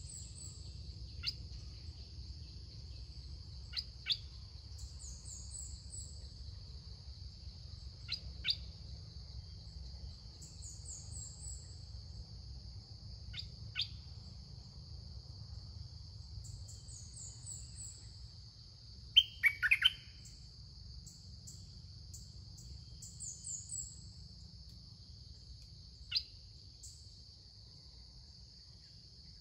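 Birds calling in forest: sharp single chirps that drop in pitch come every few seconds, with a louder cluster of calls about two-thirds of the way through. Quick, very high chirps repeat in short runs over a steady high-pitched insect drone.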